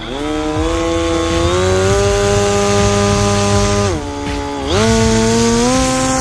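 Electric brushless motor and propeller of an RC flying wing spooling up to takeoff power with a steady, high-pitched whine. The pitch drops briefly about four seconds in as the throttle is eased, then climbs back to a slightly higher steady whine.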